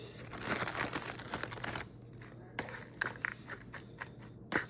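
Packaging crinkling as it is handled for about two seconds, then scattered light clicks and taps, with one sharper click near the end.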